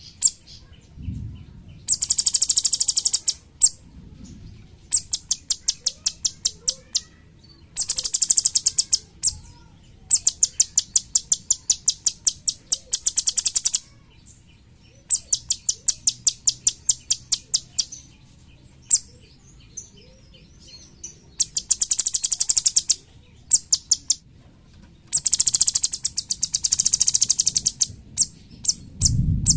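Cucak cungkok songbird singing in rapid-fire high trills, each burst lasting a second or two, repeated after short pauses, with single spaced notes between the bursts.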